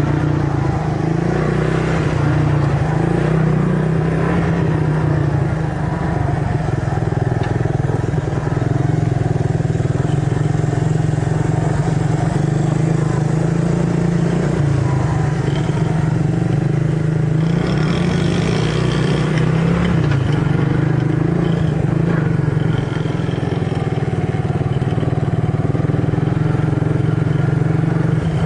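Yamaha TTR50 mini dirt bike's small single-cylinder four-stroke engine running steadily, its pitch rising and falling a little with the throttle.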